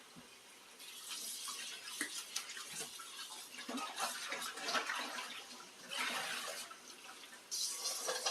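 Tap water running and splashing into a sink, starting about a second in, with small knocks mixed in; it swells and eases a few times and gets louder near the end.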